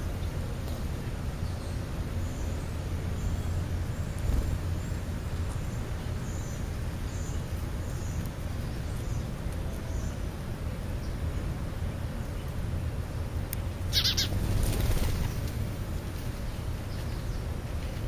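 Faint, high bird chirps repeating about once a second for the first ten seconds over a steady low outdoor rumble, then a short, harsh rasping burst about fourteen seconds in.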